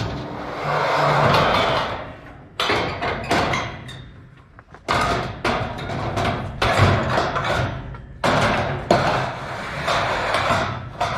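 Scrap metal being thrown down: a string of irregular clanking crashes, about one every second.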